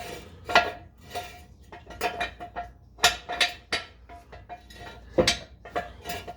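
Hand tools clicking and clinking on steel exhaust hardware during fastening, about a dozen irregular sharp metallic clicks, many with a brief ringing tone.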